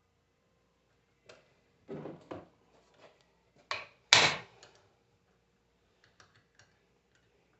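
A few separate knocks and clunks of metal tools and alternator parts being handled on a workbench. The loudest comes about four seconds in, followed by a few light clicks.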